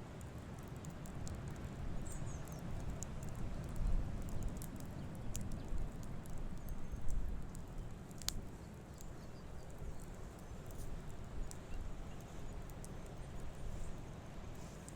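Campfire crackling: scattered sharp pops and snaps over a low, steady rumble, with one louder pop about eight seconds in.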